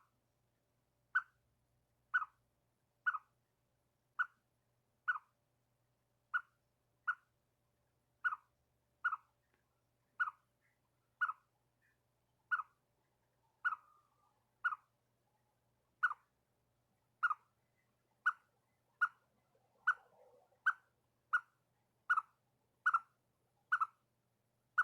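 Chipmunk giving its sharp alarm chirp over and over, about one chirp a second, a warning call at birds.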